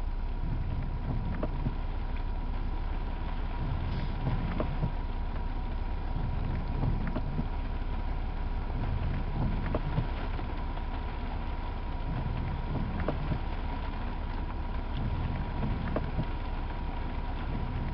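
Inside a 4x4's cabin: the engine running low and steady, with scattered small ticks of raindrops on the roof and windscreen and a faint steady whine.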